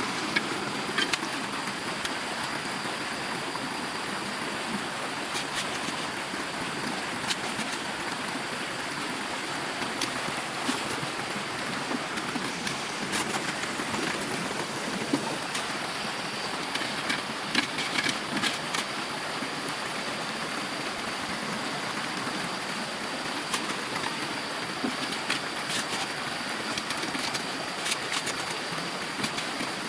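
Steady rush of running stream water, with scattered sharp clicks throughout.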